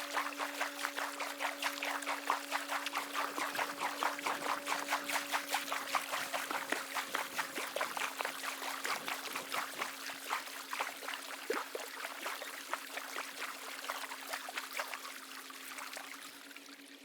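Choppy water splashing and lapping against a kayak hull in quick, dense splashes that thin out and quieten near the end, with a faint steady low hum underneath.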